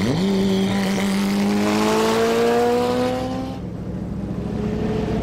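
Car engine accelerating hard, its pitch climbing steadily through one gear, then cutting off suddenly about three and a half seconds in.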